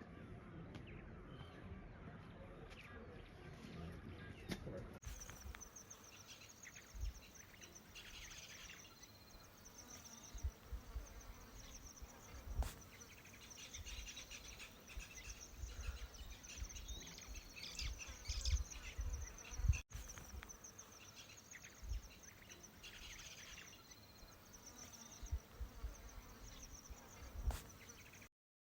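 Insects trilling in a steady, high-pitched pulsing chorus from about five seconds in, with scattered low thumps on the microphone.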